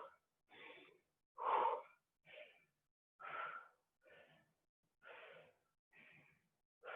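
Heavy, rhythmic breathing of a person exerting themselves during a workout set. A puff of breath comes about every second, stronger ones alternating with softer ones.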